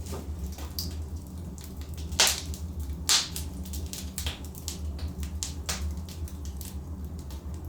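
Logs burning in a fireplace, crackling with irregular sharp pops, the two loudest a little after two and three seconds in, over a steady low rumble.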